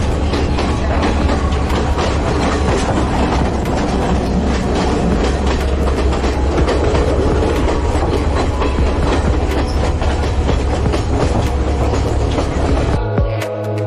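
Passenger train running, heard from on board: a steady rumble with the wheels clattering over the rail joints. Music cuts in near the end.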